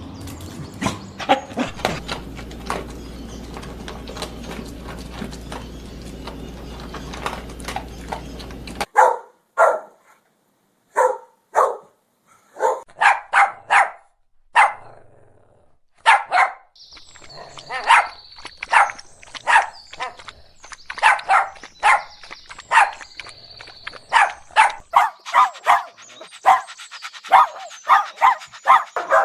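Puppies barking repeatedly. The barks start over a steady background noise, become single barks with short silent gaps about a third of the way in, then turn into a fast run of barks for the last third.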